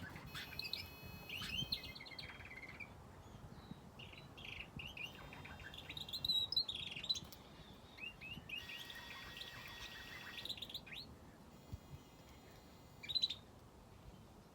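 Small aviary birds, finches and a canary, chirping in clusters of short, quick high calls mixed with a few thin, held whistled notes. The calling thins out in the second half, with one last short flurry near the end.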